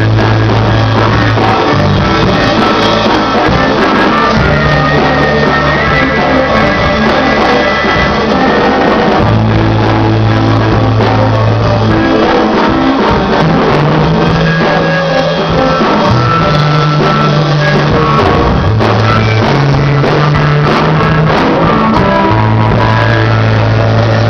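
Rock band playing live, loud and without a break, with a bass line stepping between a few held notes under the rest of the band.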